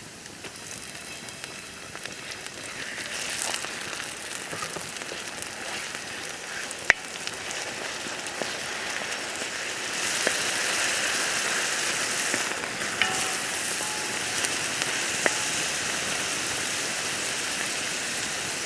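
Food frying and sizzling in a pan over a wood fire, a steady hiss that grows louder about ten seconds in, with a few sharp pops.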